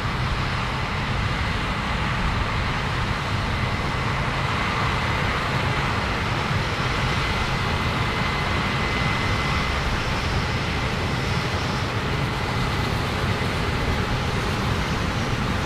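Heavy farm machinery running steadily: a low engine rumble under a broad hiss, with a faint high whine through the middle.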